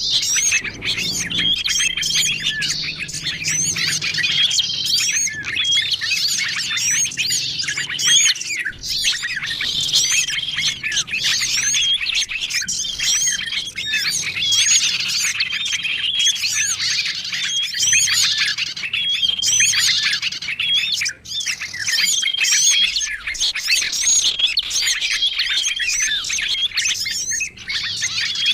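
Dense chorus of many small songbirds chirping and calling over one another, a layered bird-lure (pikat) recording for small birds. A short, steady whistle note comes back about every two seconds through the chatter.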